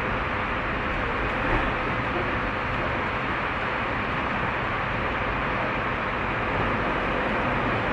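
Running noise inside a Tobu 30000 series electric train in motion: a steady rumble of wheels on rail and car body, with a faint steady tone under it.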